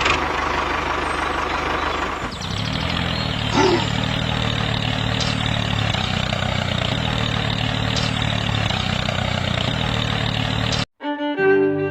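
An engine running steadily, its low note growing stronger about two seconds in. The sound cuts off abruptly near the end.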